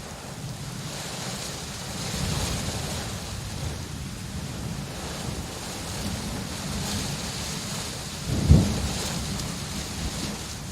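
Steady rain with a low, continuous rumble underneath. A short, sudden low clap of thunder comes about eight and a half seconds in and is the loudest moment.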